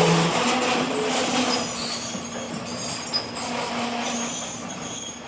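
Commercial overhead door driven by its motor operator: a steady motor hum over a broad rumbling noise.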